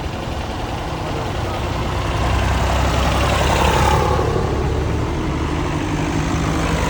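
Tractor engine running as it drives past, growing louder to a peak about three to four seconds in.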